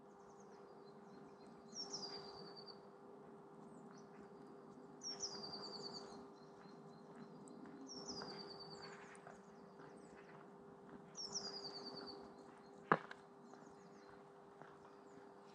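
A small songbird singing a short, high, downward-sweeping song four times, about every three seconds, over a steady background rush. A single sharp click comes about thirteen seconds in.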